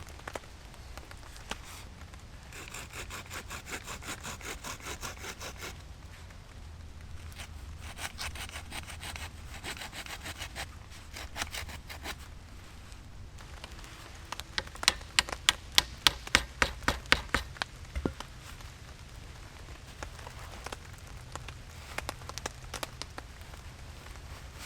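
Hand saw cutting wood in several bouts of quick back-and-forth strokes. The loudest, sharpest run comes about 15 to 18 seconds in, at about three strokes a second.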